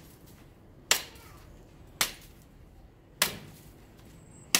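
Billhook chopping branches off a Christmas tree trunk: four sharp blows, about one a second.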